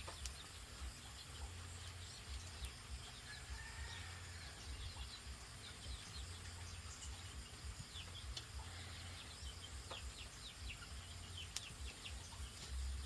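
Faint chickens clucking, heard as many short scattered calls, with one longer call about four seconds in, over a low background hum.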